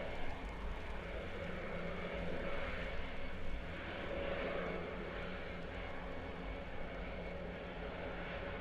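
Airbus A400M's four turboprop engines running at ground idle some distance away: a steady hum with several constant tones in it.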